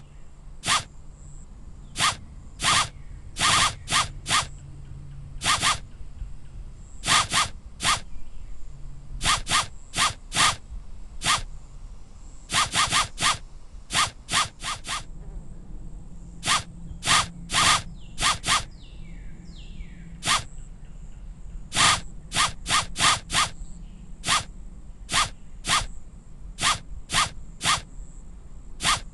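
Cat-game sound effect of quick zip-like swishes: short, sharp strokes in groups of one to four, coming one or two a second, over a faint low hum.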